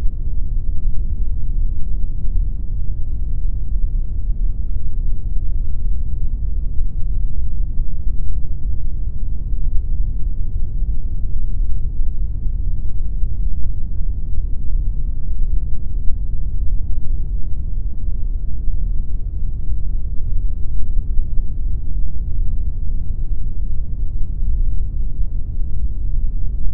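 Steady, unchanging pink noise: a loud, even hiss weighted heavily toward the bass, like a deep rushing rumble.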